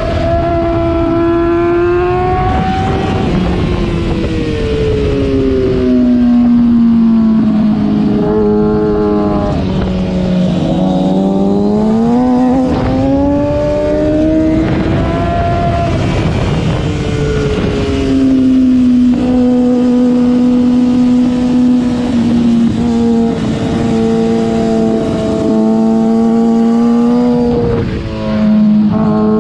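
Sport motorcycle engine heard onboard while riding a track at speed. The note climbs and falls again and again through gear changes and corners, over steady wind noise on the microphone.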